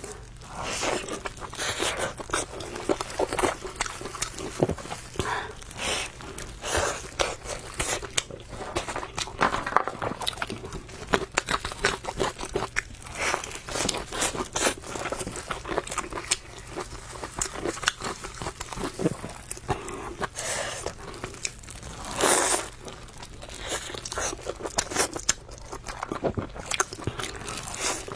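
Close-miked chewing and biting of crunchy food, a dense run of quick crunches and wet mouth sounds, with one louder crunch about three quarters of the way through.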